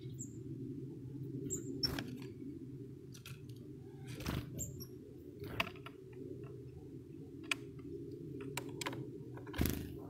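A few brief, very high bird chirps, spaced out, over a steady low rumble, with scattered sharp clicks and taps.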